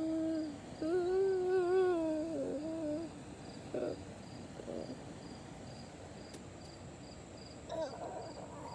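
A child's voice making a humming sound effect: one held note, then a longer wavering one lasting about two seconds, followed by a few short faint vocal noises.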